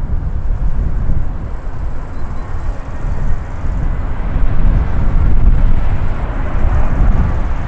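Jet airliner engines rumbling, a low steady roar that grows louder and brighter toward the end as the aircraft draws nearer.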